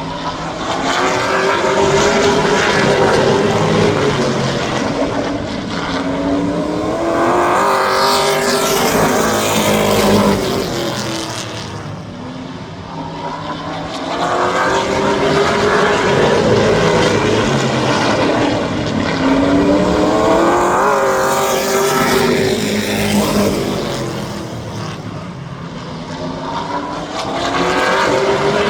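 Race trucks' engines running hard as a pack laps a short oval, swelling and fading as they pass again and again, their pitch rising and falling with each pass.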